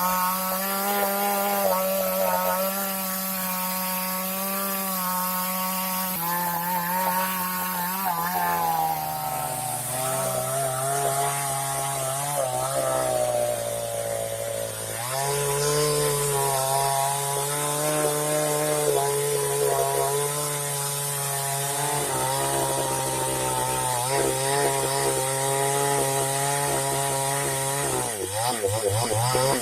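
Chainsaw running continuously, its engine note dropping in pitch about a third of the way through and rising again about halfway. Near the end a wavering sound sweeps downward.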